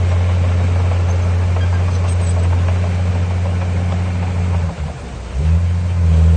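Heavy diesel engine of earth-moving machinery running with a steady low drone. About five seconds in it drops away briefly, then picks up again louder.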